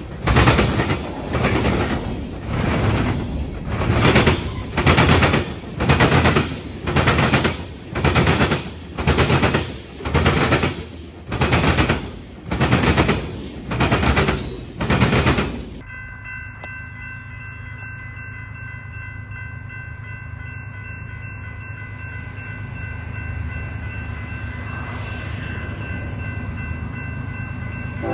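A passing freight train: loud rhythmic pounding about once a second as the cars' wheels cross the rail joints, ending abruptly. Then a steady chord of tones over a low rumble, swelling slightly near the end, as a locomotive horn sounds for an approaching train.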